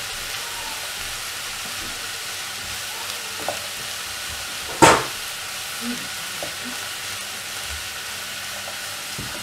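Diced radish, onion and tomato frying with a steady sizzle in a pot while a wooden spatula stirs them. The spatula knocks against the pot a few times, once sharply about five seconds in.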